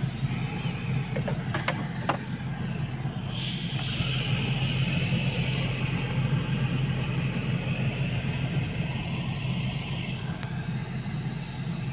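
Renault Kangoo heater blower fan (moto-ventilateur) running steadily with a low hum, throwing out the dirt caught in it, which the mechanic takes for the cause of the fan's noise. There are a couple of sharp clicks about two seconds in, and a hiss rises over the hum from about three seconds in and fades near the end.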